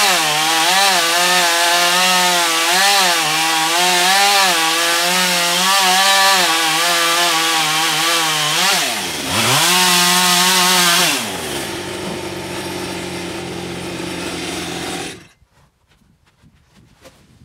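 Two-stroke chainsaw cutting through a log under load, its engine pitch wavering as it bites. About nine seconds in the revs dip sharply and climb back, then around eleven seconds it drops to idle, and the engine is shut off a little after fifteen seconds.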